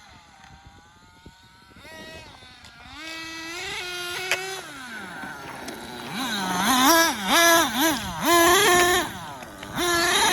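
Small nitro engine of an RC monster truck (Dynamite Big Red in an XTM Mammoth), faint at first, then rising and falling in pitch as the throttle is worked, and from about six seconds in revving up and down in quick repeated bursts, much louder.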